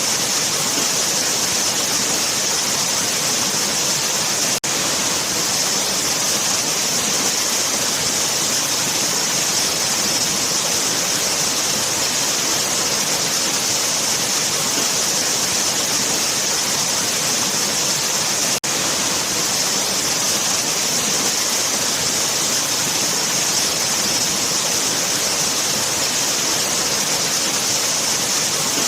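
Waterfall rushing in a steady, dense roar of falling water with a bright hiss high up. It cuts out for an instant twice, about four and a half seconds in and again near eighteen and a half seconds.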